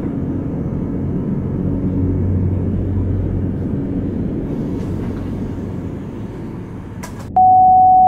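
A low, steady rumbling drone from a horror soundtrack. About seven seconds in, a loud single-pitch electronic beep cuts in abruptly and holds for over a second.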